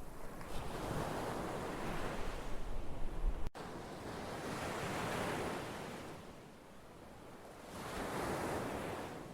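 Ocean waves surging and washing back, three swells in a row, each rising and fading over a couple of seconds. The sound drops out for an instant about three and a half seconds in, where the recording is spliced.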